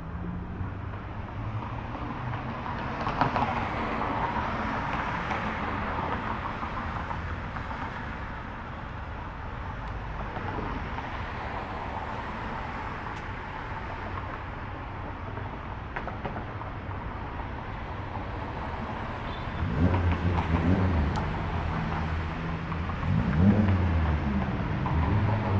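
Car engines running at low speed as cars roll past. About twenty seconds in, a louder engine comes close, and near the end it revs up and down.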